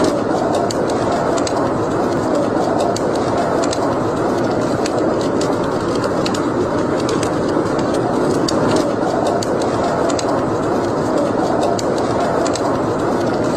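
Wood fire burning in a fireplace: a steady rushing noise with many small, sharp crackles and pops at irregular intervals.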